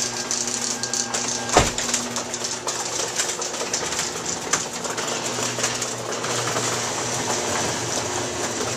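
Steady rushing noise of blizzard wind and blowing snow, with a single knock about a second and a half in.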